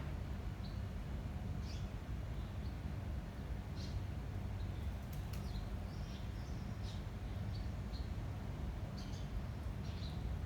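Small birds chirping in short, scattered high calls over a steady low rumble of wind.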